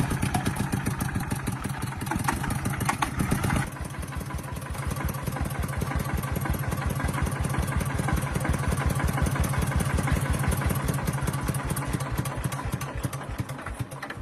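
Truck engine running with an even firing rhythm; it drops to a quieter, steady idle a few seconds in and dies away at the end.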